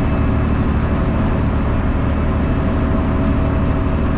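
Freightliner's straight-piped 12.7-litre Detroit Diesel Series 60 engine running steadily under way at highway speed, a steady low drone with no change in pitch.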